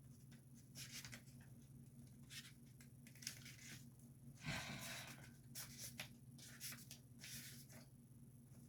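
Faint rustling of paper: a few soft, short brushes and one longer, louder rustle about halfway through, over a low steady hum.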